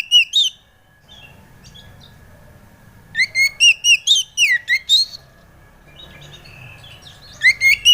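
Oriental magpie-robin (kacer) singing loud phrases of quick, sharply rising and falling whistled notes, one phrase ending just after the start, a two-second phrase in the middle, and another beginning near the end.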